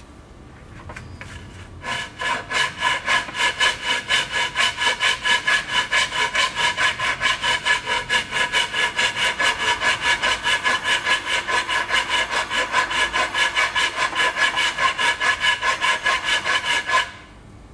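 Bastard-cut wood rasp scraping across a wooden boat plank in fast, even strokes, about four or five a second, shaping the timber. The rasping starts about two seconds in and stops just before the end.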